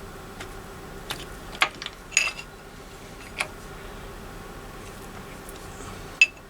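A handful of short, light metallic clicks and clinks, spaced irregularly a second or so apart, as a homemade gear puller and its bolts are handled and fitted to a motorcycle engine's timing gear, over a faint steady hum.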